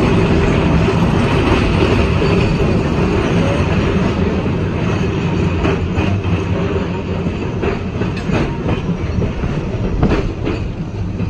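NORTA 900 Series streetcar running along its rails, heard from inside the car: a steady rumble of wheels and running gear, with several sharp clicks in the second half.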